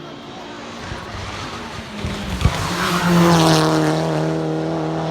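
Race car's engine approaching and getting louder, then held on one steady, loud note, with a single sharp crack a little over two seconds in.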